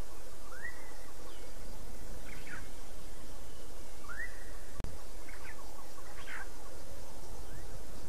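Wild birds calling over a steady outdoor background hiss: two sharply up-swept whistled calls, one about half a second in and one about four seconds in, with short bursts of chattering notes between them. The sound drops out for an instant just before the middle.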